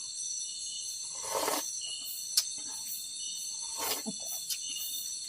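Steady chorus of night insects such as crickets, several high-pitched tones held without a break. Two short rustling noises, about one and a half and four seconds in, and a sharp click a little after two seconds sit over it.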